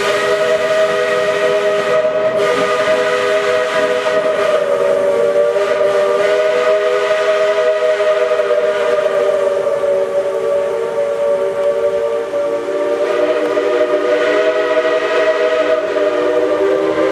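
Steam locomotive whistle blown in one long, unbroken multi-tone blast, its pitch sagging a little. About twelve seconds in, a lower tone joins the chord.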